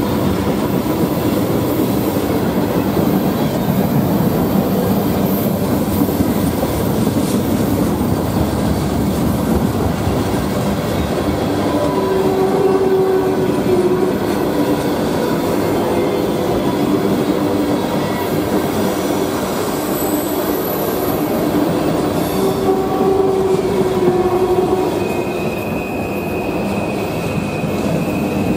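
Freight train's tank cars and open-top cars rolling past close by on a curve: a loud, steady rumble of wheels on rail. Brief squealing tones from the wheels come and go, mostly around the middle and again near the end.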